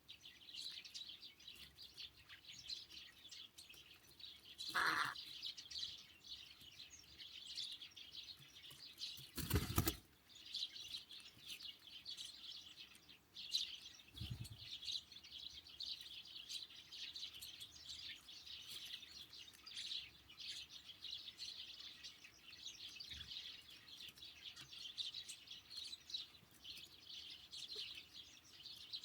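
Small songbirds, great tits and sparrows, chirping and twittering continuously in a dense high-pitched chatter. A short, loud burst of noise comes about ten seconds in, with a lower thump a few seconds later.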